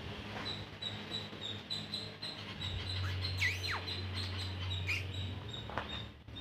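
Birds chirping, with one call gliding steeply down in pitch about three and a half seconds in, over a low steady hum and a faint regular high ticking about three times a second.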